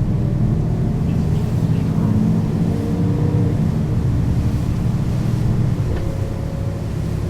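Mercedes-Benz O 530 G Citaro articulated bus's diesel engine and ZF automatic gearbox under way, running loud and steady, with the engine note changing pitch a couple of times.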